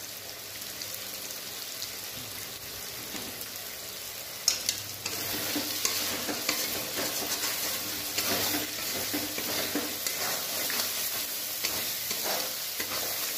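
Spice paste sizzling in hot oil in a metal kadai, being fried down after turmeric and salt are added. About four and a half seconds in there is a knock, then a metal spatula stirs and scrapes the paste around the pan and the sizzling grows louder.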